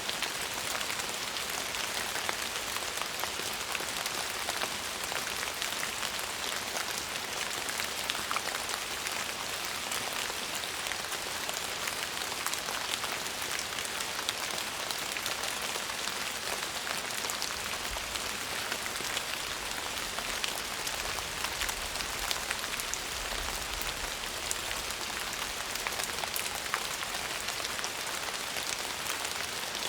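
Steady rainfall on a surface: an even hiss of rain with fine ticks of individual drops, keeping up without a break.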